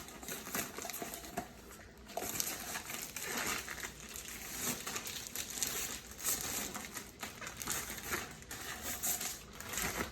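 Plastic heat-shrink poultry bag crinkling irregularly as a whole dressed chicken is pushed into it, with a brief lull about two seconds in.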